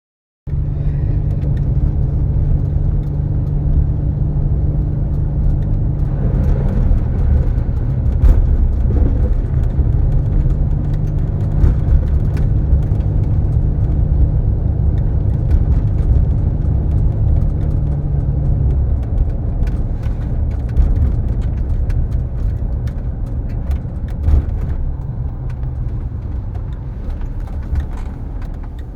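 A car running in a heavy downpour: a steady low rumble and hum, with many scattered sharp taps. The hum drops out about two-thirds of the way through.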